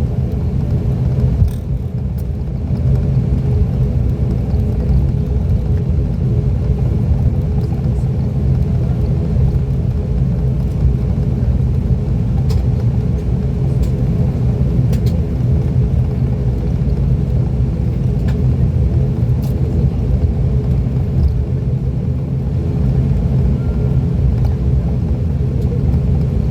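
Cabin drone of an ATR 42-600's Pratt & Whitney PW127 turboprop engines and propellers, running steadily with a low hum of several held tones. There is a light knock about a second and a half in, and a few faint ticks later.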